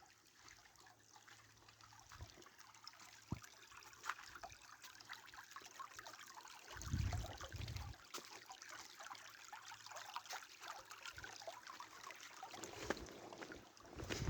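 Rainwater trickling and dripping, a fine patter of many small drips. About seven seconds in there are two brief low rumbling thumps.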